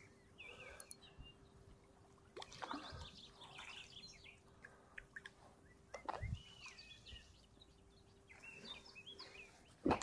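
Songbirds chirping and singing in short, faint phrases. A couple of soft knocks come about three and six seconds in, over a faint steady hum.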